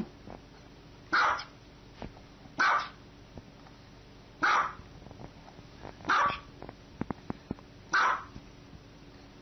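Small white dog barking five times, single short high barks evenly spaced about every second and a half to two seconds. A quick run of four light clicks falls between the last two barks.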